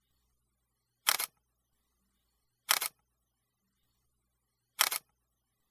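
Camera shutter clicking three times, each a quick double click, about one and a half to two seconds apart, with silence between.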